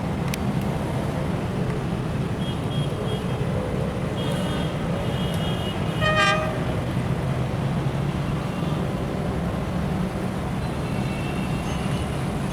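A steady low vehicle rumble with a single short horn toot about six seconds in, the loudest moment; a few faint higher tones come and go before it.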